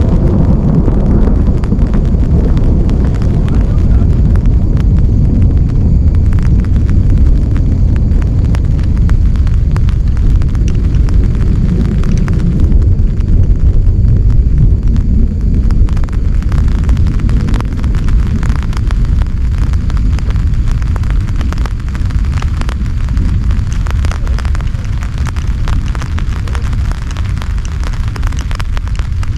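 Heavy rain drumming on a tent: a loud, dense low rumble with countless sharp drop impacts throughout.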